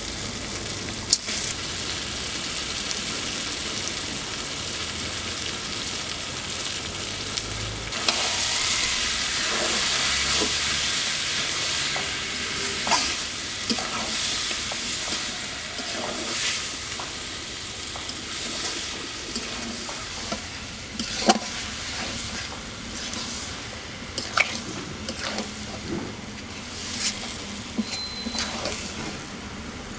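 Onion-and-tomato masala frying in hot oil in a pan, sizzling steadily and growing louder about eight seconds in, while it is stirred, with a few sharp knocks of the stirring utensil against the pan.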